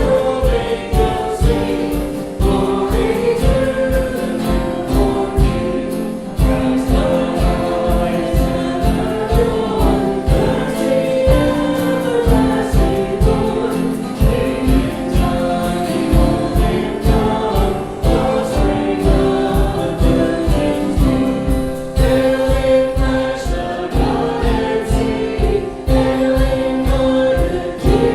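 Worship music: a choir singing a gospel-style song over accompaniment with a steady beat.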